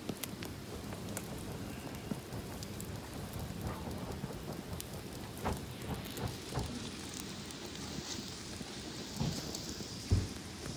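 Campfire crackling: a steady hiss with many small sharp pops and snaps, and a louder low pop about ten seconds in.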